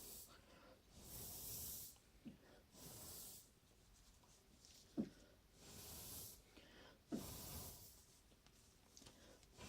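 Faint, repeated bursts of hissing air, each about a second long, as a blizzard is blown over a model car. A few short, soft knocks fall between the bursts.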